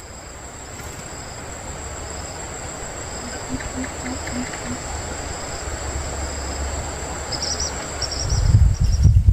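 Insects calling: a steady high-pitched drone, with short chirps near the end, over an even background hiss.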